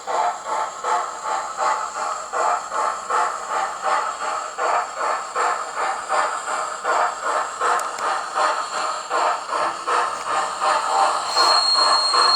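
Hornby Flying Scotsman model locomotive's built-in sound playing steady steam exhaust chuffs, about two and a half a second, as it runs slowly. A high steady tone joins near the end.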